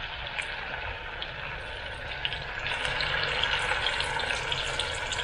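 Blended chili paste (chilies, garlic, shallots and tomato) sizzling in hot oil in a frying pan as it is spooned in, a steady hiss with many small crackles that grows louder about halfway through as more paste goes into the oil.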